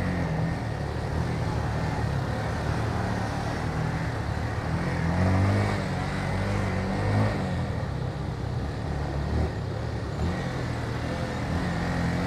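Motorcycle engine running while under way, its pitch rising and falling several times as the throttle changes, over a steady rush of road and wind noise.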